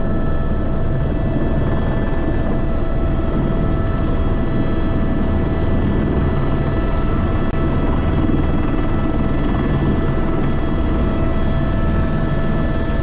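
Tour helicopter running steadily: a dense, unbroken low drone from the rotor and turbine, with several steady whining tones above it.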